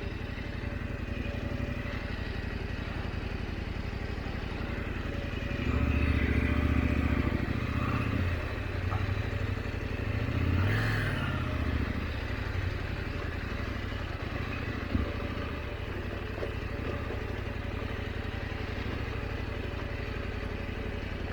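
KTM 890 Adventure's parallel-twin engine running at low revs off-road. It opens up for a couple of seconds about six seconds in and gives a short rev that rises and falls near the middle. There is one sharp knock about fifteen seconds in.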